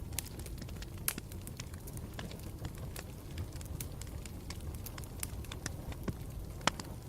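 Campfire burning with a steady low rumble and many small snaps and pops of crackling wood, with a louder pop about a second in and another near the end.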